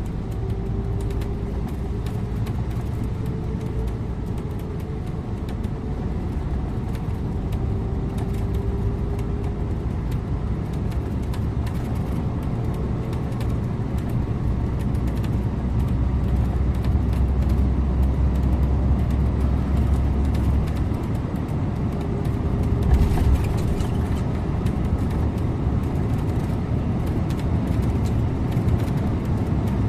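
Scania InterLink bus on the move: a steady engine drone and road rumble, with a faint whine that drifts up and down in pitch. The rumble grows louder for a few seconds past the middle, and there is a brief rattle a little later.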